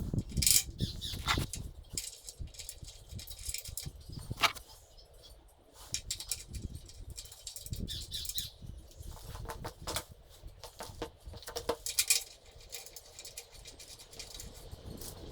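Scattered knocks, clicks and rustling, irregular and off and on, with a louder knock about four and a half seconds in and a cluster around ten to twelve seconds.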